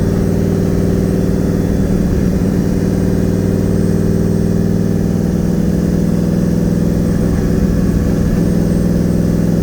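Twin-turbo Nissan VK56 5.6-litre V8 in a 300ZX, heard from inside the cabin, running steadily at a light cruise with no revving up or down.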